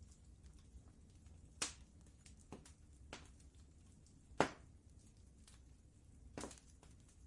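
Wood fire crackling in a fireplace: scattered sharp pops at irregular intervals over a low steady rumble, the loudest pop a little past the middle.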